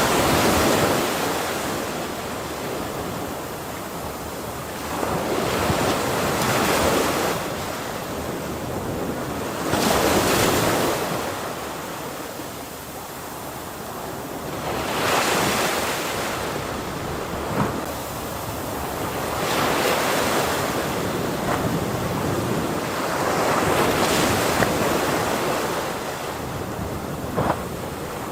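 Ocean waves breaking on a shore, the surf swelling and washing back about every four to five seconds.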